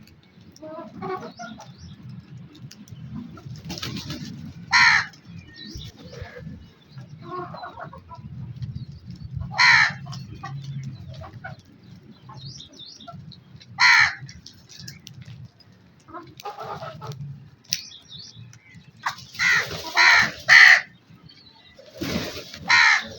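Crow cawing: single harsh caws about every four to five seconds, then three caws in quick succession and one more near the end, over softer bird chatter.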